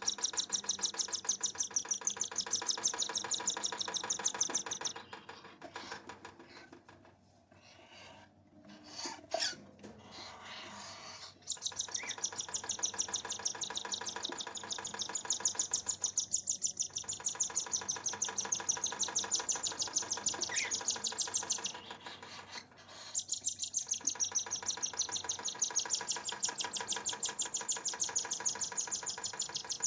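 A bird's rapid, continuous high chirping, many chirps a second, in long runs broken by a quieter pause of several seconds near the start and a short break about two-thirds of the way through.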